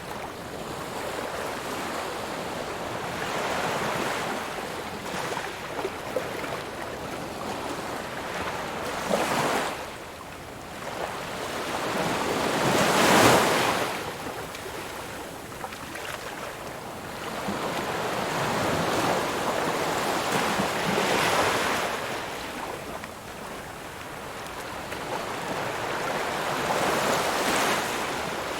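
Ocean waves breaking on a shore, surging and receding: several swells build and wash in, the loudest crash coming about halfway through.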